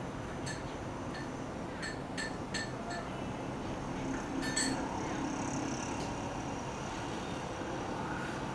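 Small birds giving short, sharp chip notes: one about half a second in, a quick run of three or four around two to three seconds, and another pair about halfway through, over a steady outdoor background hiss.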